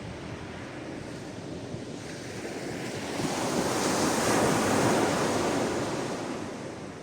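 Sea waves washing onto the shore: a steady wash of surf that swells into one breaking wave about three seconds in, peaks, and fades away near the end.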